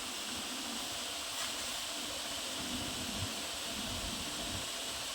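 Steady, even hiss of background noise with no distinct knocks, clicks or changes.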